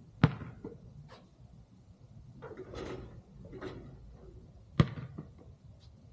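A basketball hitting hard twice, about four and a half seconds apart, each sharp thud followed a moment later by a softer rebound bounce.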